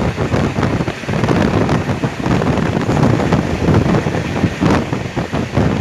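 Passenger train running, heard from on board: wind buffeting the microphone over the rumble and rattle of the coaches on the track.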